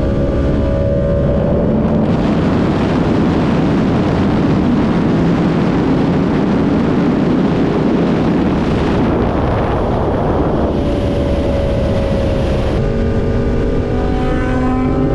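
Inline-four 1000 cc sport bike riding at speed. Its engine note is buried under a heavy rush of wind noise from about two seconds in until about ten seconds in, then the engine comes through clearly again and its pitch rises near the end as it accelerates.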